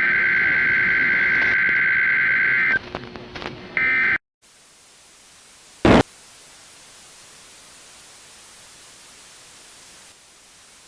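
Emergency Alert System digital header burst, a harsh buzzy data tone, for about three seconds, with a short second burst near four seconds. It cuts off suddenly into steady hissing static, broken by one loud pop about six seconds in.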